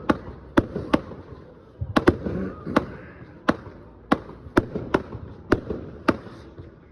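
Fireworks going off: an irregular string of sharp bangs, about two a second, with crackling between them.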